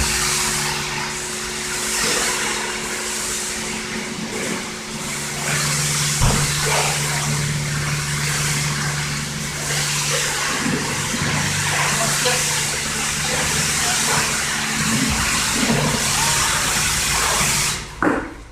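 Steady hiss of a high-pressure water spray washing a car's engine bay, with a low steady hum underneath. The spray cuts off suddenly near the end.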